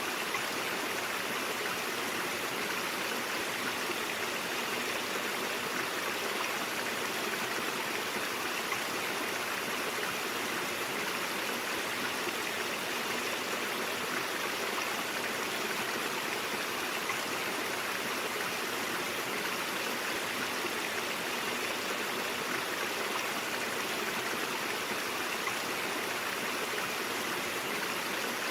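Stream water flowing over rocks, a steady even rush and babble with no breaks.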